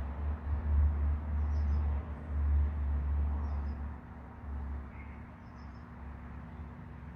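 Deep rolling rumble of thunder that swells and dips unevenly, then dies away about four seconds in to a low background rumble. Three faint, short high chirps come through it.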